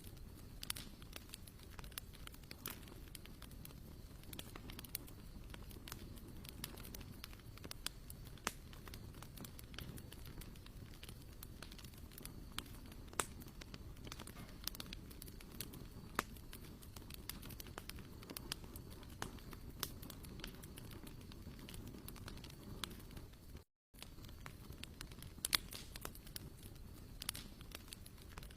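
Wood fire crackling, with scattered sharp snaps and pops over a low steady rumble.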